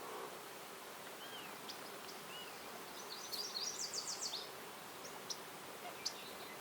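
Songbirds calling: a couple of short whistled notes, then a fast high trill of about eight notes about three seconds in, and a few sharp high chirps, over a faint steady outdoor hiss.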